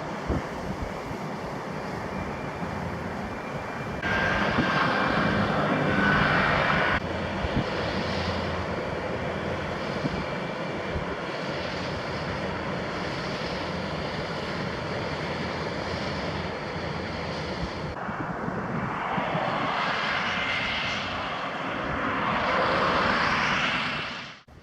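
Inland motor cargo ship's 862 hp Mitsubishi diesel engine droning steadily as it passes, mixed with strong wind buffeting the microphone. It turns louder for a few seconds early on, swells in gusts near the end, then cuts off abruptly.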